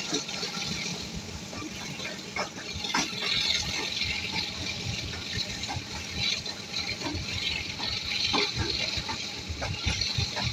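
Moving passenger train heard from an open coach window: steady rushing wind on the microphone over a low running rumble, with scattered irregular knocks from the wheels and coach.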